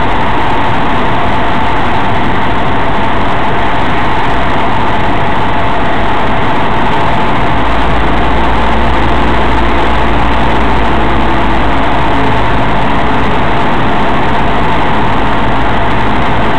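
Cessna 172's piston engine and propeller running steadily, heard inside the cockpit as a loud, even drone. About halfway through, a deeper low rumble joins it and holds.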